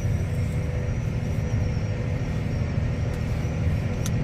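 A vehicle engine running steadily at idle: an even low rumble with no change in speed.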